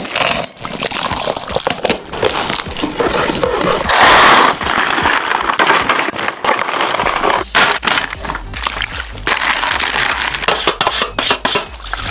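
Food frying in hot fat, sizzling and crackling with many irregular pops, with a louder surge of sizzle about four seconds in.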